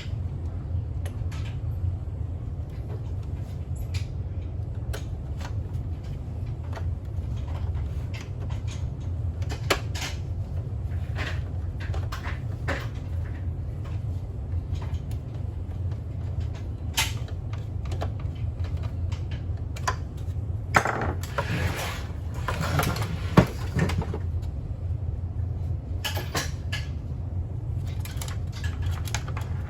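Parts and tools being handled during a repair: scattered light clicks and knocks, with a stretch of rustling and scraping about two-thirds of the way in that has two sharp knocks in it. A steady low hum runs underneath.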